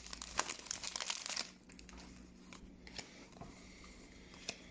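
Foil wrapper of a Pokémon trading card booster pack crinkling as it is torn open, lasting about a second and a half, followed by a few faint clicks of cards being handled.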